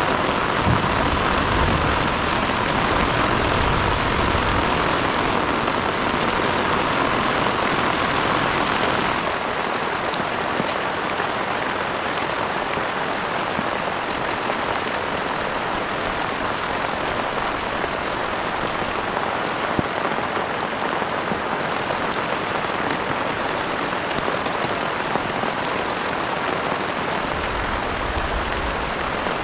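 Heavy rain falling steadily. About nine seconds in the sound shifts and drops slightly in loudness, with less of its earlier middle-pitched hiss.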